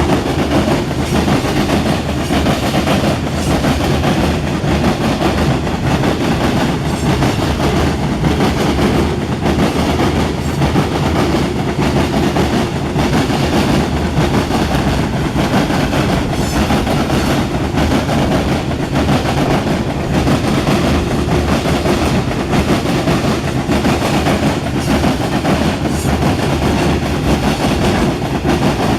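Loud, steady rumble of a CSX freight train's cars rolling past, with the wheels clicking over rail joints again and again.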